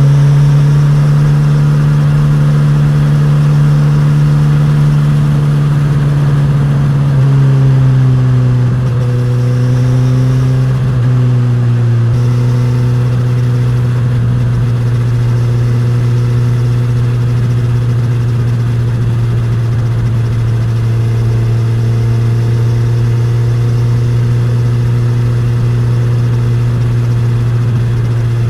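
Suzuki GSX-S1000's inline-four engine and exhaust running at steady revs. The pitch shifts and dips a few times between about seven and twelve seconds in, then holds steady.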